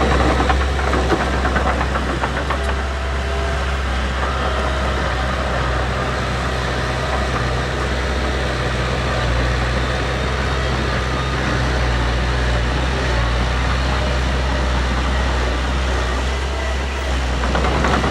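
Heavy diesel engine of earthmoving machinery running steadily with a deep low hum, getting a little louder near the end.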